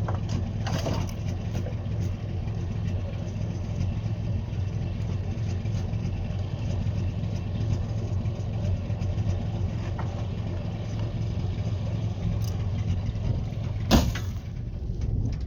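A motor vehicle's engine running steadily with a low hum, and a sharp click or knock near the end.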